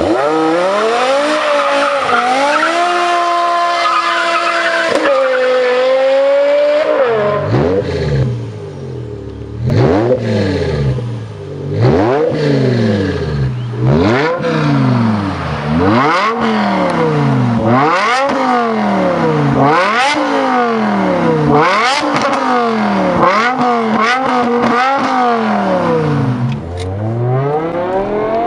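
High-revving car engine under hard acceleration. Its pitch climbs steeply, then drops sharply at each gear change, about every two seconds, over and over.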